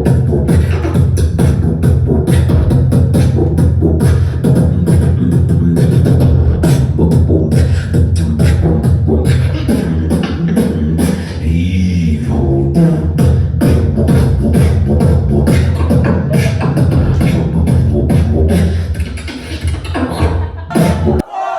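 Amplified live beatboxing through a PA: a beatboxer's fast vocal drum strikes over a heavy, steady bass line, cutting out sharply near the end.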